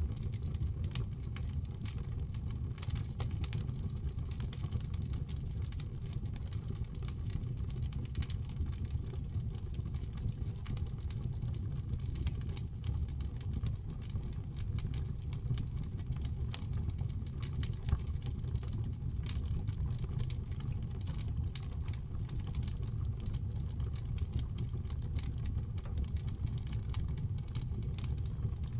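Fire burning in a fireplace: a steady low rumble of the flames with frequent sharp crackles and pops, one louder pop about two-thirds of the way through.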